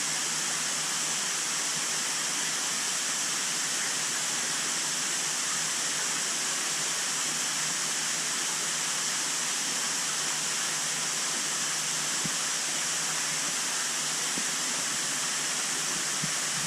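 Steady rush of moving water with a high hiss, from the water circulating through a large fish exhibit, over a low steady hum.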